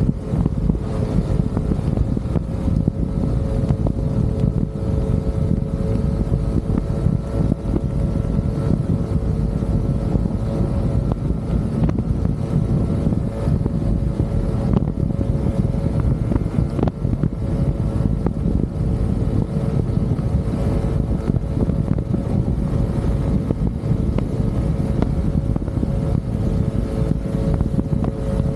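Motorcycle cruising at a steady speed, its engine drone holding an even pitch under heavy wind rumble on the microphone.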